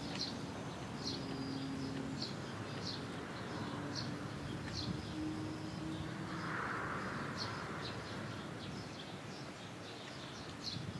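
A small bird calling in short, high chirps, about one a second, over steady outdoor background noise with a faint low hum that comes and goes. A brief rushing noise comes a little past the middle.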